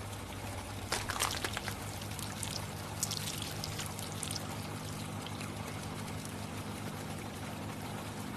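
Liquid pouring steadily over a low steady hum, with brief crackly spurts about a second in and again around three to four seconds in.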